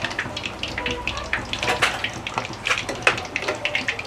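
Chicken leg pieces frying in hot oil in a pan over a low flame: a steady sizzle with many sharp crackles and pops.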